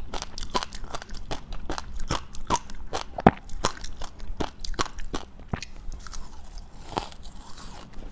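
Close-up crunching and chewing of dry, powdery freezer-frost ice: rapid irregular crackles, several a second, with one sharp loud crack about three seconds in.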